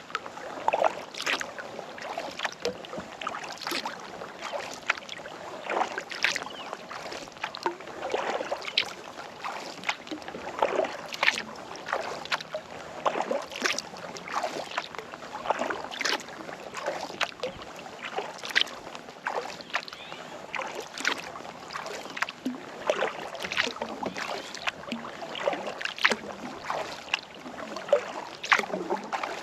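Kayak paddle strokes on calm lake water: the blade dipping and pulling with regular splashes and drips, one every second or two, as the boat is paddled along.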